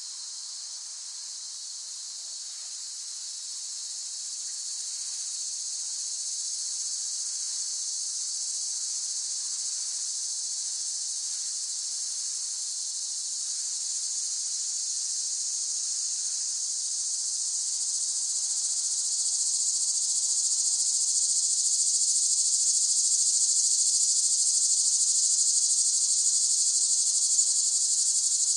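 Cicadas buzzing in a steady high-pitched drone that grows gradually louder, loudest in the last third.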